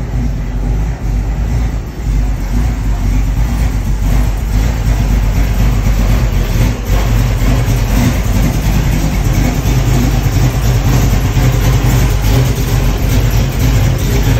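Carbureted V8 of a rebuilt 1979 Chevrolet Camaro Z28 running at a steady idle with a deep, low exhaust note, growing louder over the first couple of seconds and then holding steady.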